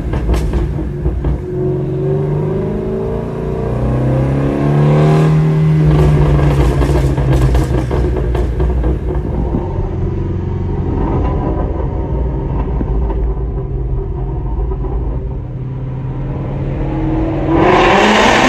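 Ford Shelby GT350's 5.2-litre flat-plane-crank V8 through a Corsa X-pipe exhaust with catless long-tube headers, heard on the move: it revs up with rising pitch for a few seconds, drops back at a shift and runs at steadier revs, then gets loud again on hard acceleration near the end.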